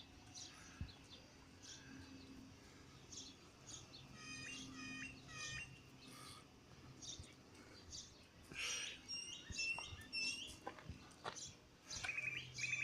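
Small birds chirping: many short high calls come in scattered runs, with a quick trilled call near the end, over a faint low steady hum.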